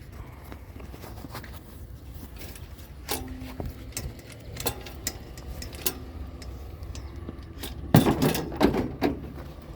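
Steady low hum of an idling vehicle, with a few scattered knocks and a louder burst of clunks and rattles near the end.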